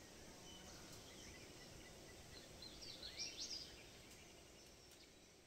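Quiet outdoor background hiss with a short run of high bird chirps about three seconds in.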